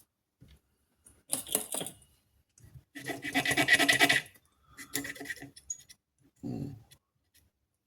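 Scratching and clicking of small hard parts being handled, in several short bursts, the loudest about three to four seconds in.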